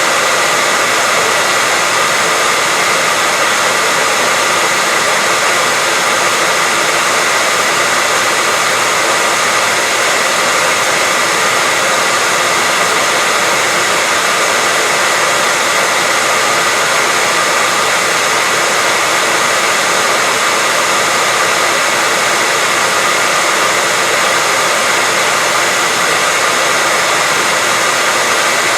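Hair dryer running steadily: an even, unbroken rush of air with a faint whine of the fan motor.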